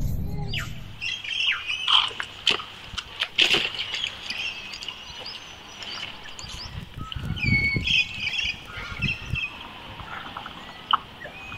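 Birds chirping and calling with short squawks, many brief chirps scattered through, over light outdoor ambience; a few low thuds come about seven to nine seconds in.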